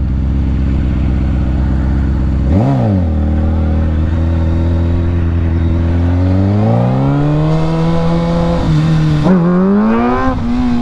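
Honda CBR600F4i sport bike's inline-four engine under way, with a quick throttle blip about two and a half seconds in. It then climbs in pitch as the bike accelerates, with a drop near nine seconds and another near the end, as it shifts up through the gears.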